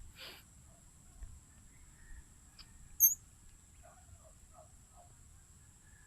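Steady high-pitched drone of insects, with one short, loud high chirp about three seconds in and faint dogs barking in the distance soon after.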